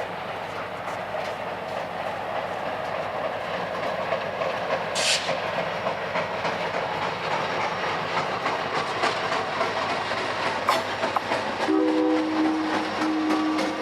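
Freight train rolling past, its wheels clicking over the rail joints, with a brief high squeal about five seconds in. Near the end the locomotive's horn sounds a multi-note chord in two blasts.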